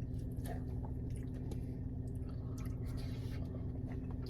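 A person chewing soft egg close to the microphone: wet, squishy mouth sounds and small scattered clicks over a steady low hum.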